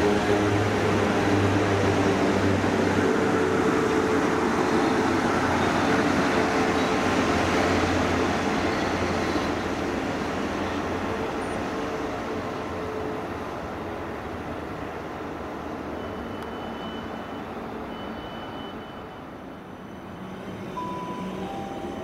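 A passenger train running past on the line: loud at first with a steady low drone, then fading away over the next ten seconds or so as it recedes.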